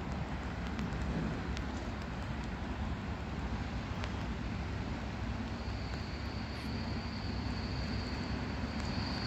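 Steady low rumble of an electric train approaching on the overhead-wired line, mixed with distant road traffic. A thin, high steady whine sets in about halfway through and grows stronger near the end as the train draws closer.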